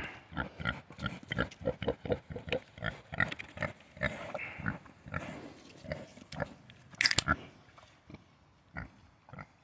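A pig drinking and eating noisily, with a quick irregular run of wet smacks and slurps. One louder clack comes about seven seconds in.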